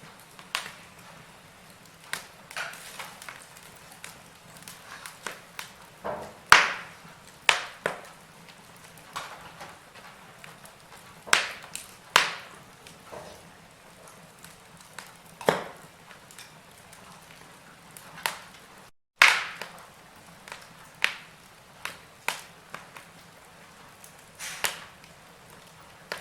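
Wood fire in a fireplace crackling, with irregular sharp pops over a faint steady hiss; the loudest pops come about six, twelve and nineteen seconds in, the last right after a split-second dropout in the sound.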